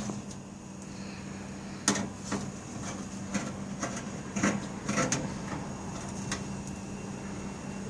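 A few light knocks and clatters of handling at the open back of a refrigerator, over a steady low hum.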